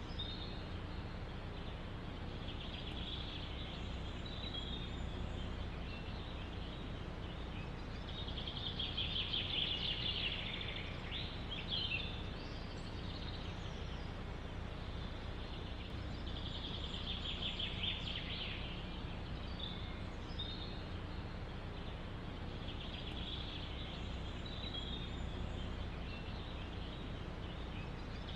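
Songbirds singing in the forest: a rapid trilled phrase repeats about every six or seven seconds, the loudest about ten seconds in with a few quick sweeping notes. A steady low background noise runs beneath.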